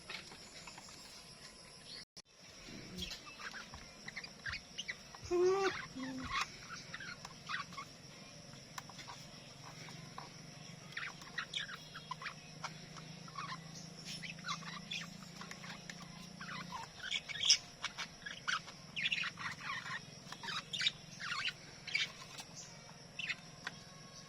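Pet budgerigars chirping and chattering in many short, scattered chirps that grow busier in the second half, over a faint low hum.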